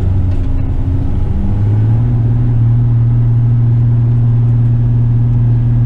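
Western Star tipper truck's diesel engine running steadily under load. Its pitch steps up slightly about a second and a half in, then holds even.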